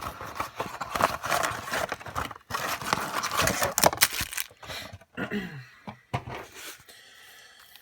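Crinkling and tearing of a trading-card pack's wrapper as it is opened and the cards are handled, dense and crackly for about five seconds, then quieter near the end.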